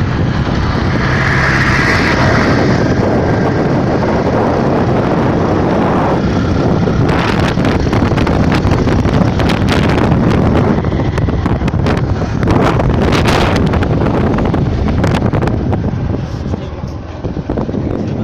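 Loud, steady wind buffeting the microphone, with a vehicle running underneath and frequent crackles.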